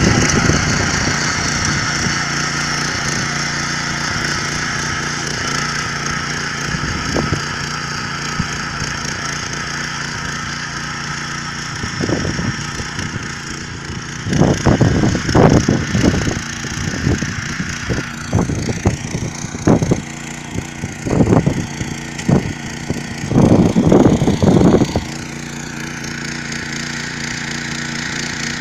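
Yağmur YET 300 garden tiller's engine running steadily while tilling soil. In the second half come several bursts of loud, sharp clattering knocks over about ten seconds.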